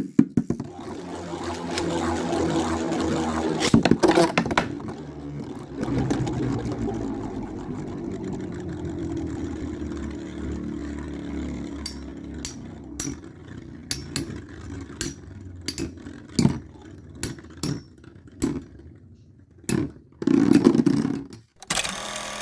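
Beyblade spinning tops whirring in a stadium, the whir slowly dropping in pitch and fading over the first ten seconds or so, with sharp clacks as they hit. After that come scattered clicks and knocks, and a short louder whir near the end.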